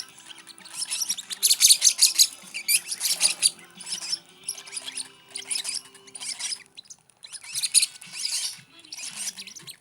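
Lovebird chicks begging during hand-feeding: rapid, high-pitched, scratchy chirps in repeated bursts with short breaks.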